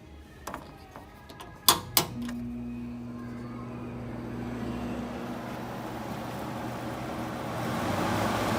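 Haier JA-SP25E spot air conditioner being switched on: a few light clicks, then two sharp clicks about two seconds in, followed by a steady motor hum and a rush of air that grows louder near the end.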